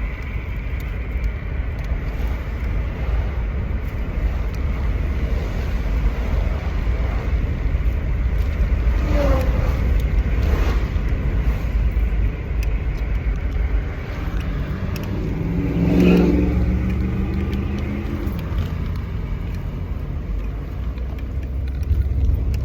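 Steady low rumble of a car, as heard from a vehicle. About two-thirds of the way in, a louder pitched sound swells and fades over a few seconds.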